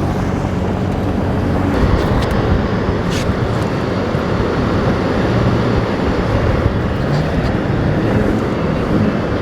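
Toyota Tacoma pickup driving on a snow-covered road: steady engine and road noise with a few faint clicks.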